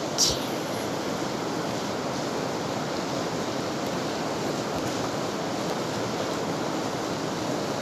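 Steady hiss of rain, an even wash of noise that swamps the recording, with a short sharp hiss right at the start.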